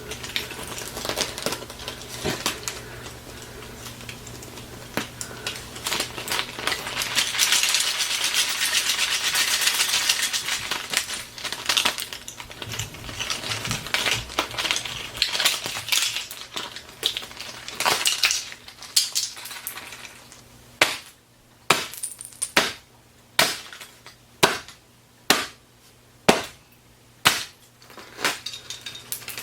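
A hard plastic toy being broken and pulled apart: crunching and rattling, loudest in the first half. Near the end comes a run of about ten sharp knocks, roughly one every second.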